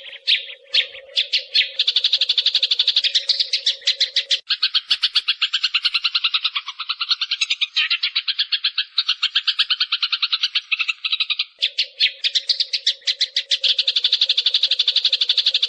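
Sparrows chattering: a dense, continuous run of rapid chirps, many a second. A steady low hum runs under them at the start, drops out through the middle and comes back near the end.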